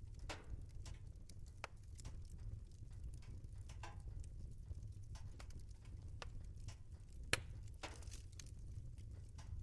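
Wood fire crackling in a fireplace: irregular snaps and pops over a low steady rumble, with one sharp, louder pop about seven seconds in.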